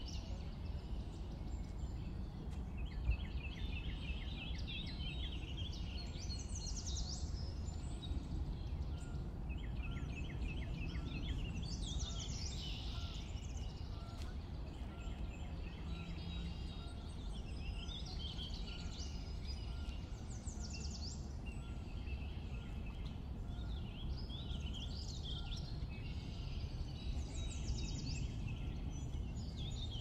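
Songbirds singing and calling again and again, quick chirps and rapid trills, over a steady low outdoor rumble.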